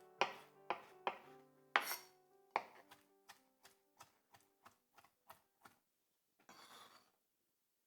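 Knife chopping on a cutting board, sharp knocks about three a second that grow fainter, with background music fading out in the first couple of seconds. A short scraping rustle near the end.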